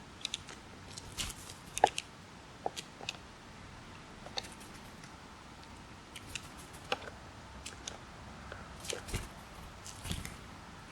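Irregular sharp clicks and taps, coming singly and in short clusters, with the loudest one at about two seconds in.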